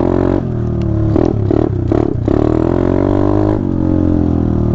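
Small single-cylinder four-stroke mini bike / pit bike engine running on the trail, its pitch dropping off, then a few short choppy throttle blips about a second in, before it revs back up and holds a steady higher speed.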